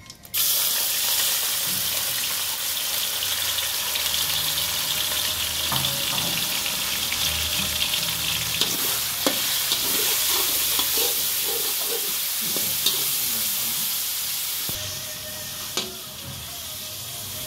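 Diced raw chicken sizzling in hot oil in a wok. The sizzle starts suddenly as the chicken goes in, a few clicks from a spatula stirring come later, and the sizzle eases somewhat near the end.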